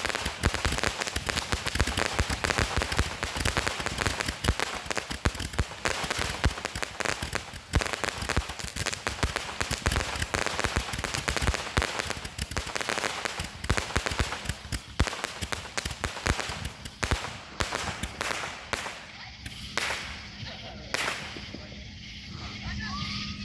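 Fireworks going off in a rapid, continuous run of crackles and bangs. About seventeen seconds in they thin out to scattered pops.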